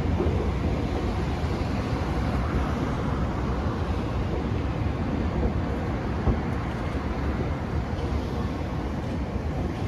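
Steady low rumble of a train running along the line.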